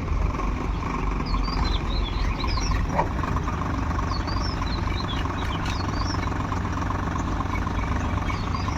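Heavy diesel engine running steadily, with small birds chirping in two short bouts over it.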